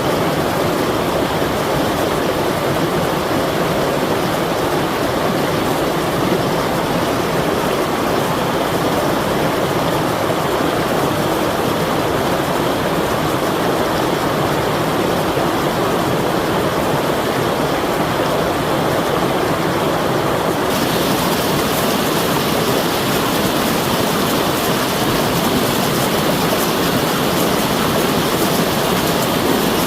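Flowing water rushing steadily. About two-thirds of the way through, the rush abruptly turns brighter and hissier.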